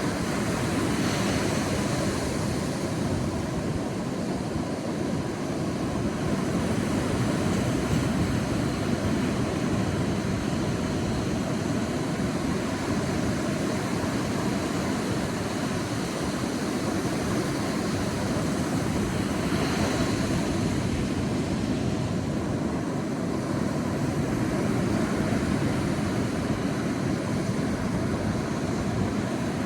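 Sea waves breaking and washing on a beach: a steady rumble of surf that swells slowly, with brighter hissing washes about a second in and again about twenty seconds in.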